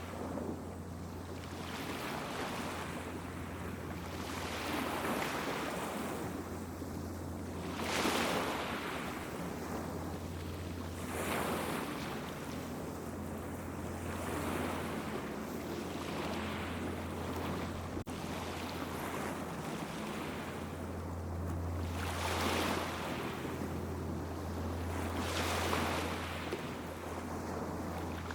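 Small waves washing onto a beach, one swell of surf every few seconds, over a steady low hum.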